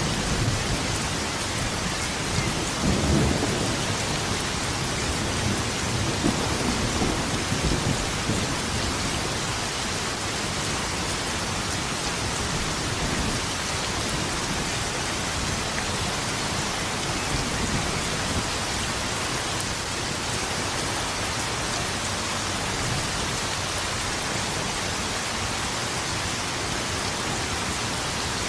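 Steady rain falling, with low rolls of thunder in the first several seconds, then rain alone.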